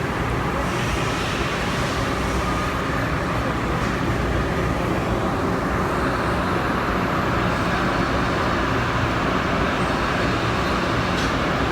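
Okuma Multus B750W CNC multitasking turning center running its milling spindle steadily at its top speed of 5,000 RPM: an even, unbroken machine noise with a faint thin high tone.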